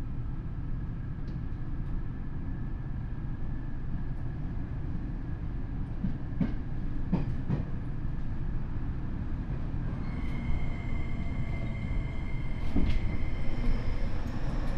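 Tokyo Metro 7000 series train heard from inside the car: a steady rumble of wheels on rail, with a few sharp clacks about six to seven seconds in. From about ten seconds in, the steady high whine of its Hitachi IGBT VVVF inverter and traction motors joins.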